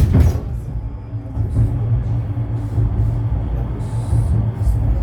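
71-911EM "Lvyonok-M" tram running between stops, heard from inside the car: a steady low rumble of wheels on rail and running gear. A sharp knock comes right at the start.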